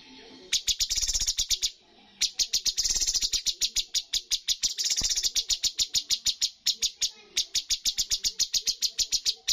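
Cucak cungkok song. It is a rapid-fire 'tembakan' of sharp, high repeated notes, about eight a second, in long runs. There is a short pause near the start and another about two seconds in.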